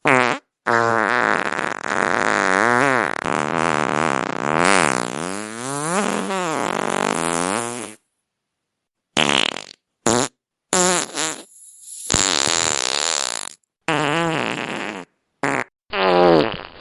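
Fart sound effects: a brief one, then one long drawn-out fart with a wavering pitch lasting about seven seconds. After a short silence comes a string of about seven shorter farts that start and stop abruptly.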